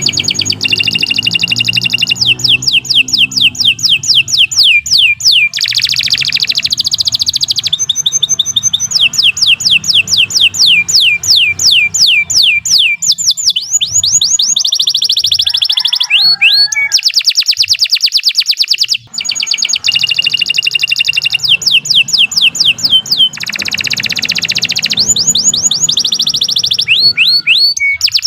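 Domestic canary singing a long, unbroken song of rapid trills: fast runs of repeated sweeping notes that change pattern every second or two, with one short break about two-thirds of the way through.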